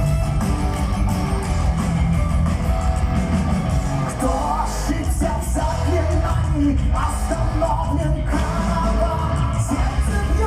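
Power metal band playing live: distorted electric guitars, bass and drums, with sung vocals coming in about four seconds in.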